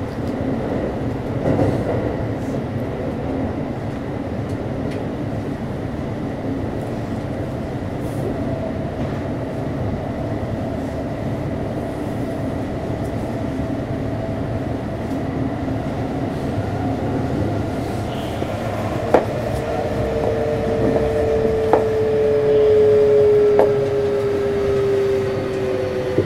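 Kintetsu 3220 series electric train heard from inside the car while running in the subway tunnel, with a steady rumble of wheels on rail. In the second half there are a few sharp clicks from the rail and a strong whine from the Hitachi IGBT VVVF traction equipment that slowly falls in pitch.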